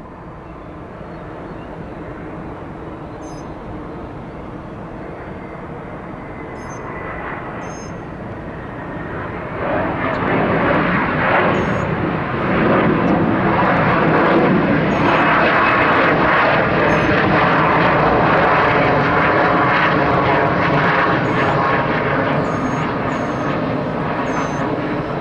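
Jet airliner's engines, a steady roar that grows louder over about ten seconds and then stays loud as the aircraft passes close by.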